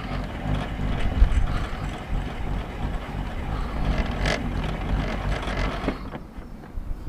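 The blade-height handwheel of an unplugged Evolution saw being wound by hand to raise the blade. It makes a steady, rough mechanical winding noise that stops about six seconds in.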